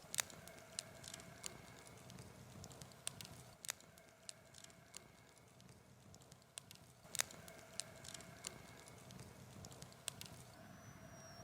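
Wood campfire crackling softly, with sharp, irregular pops.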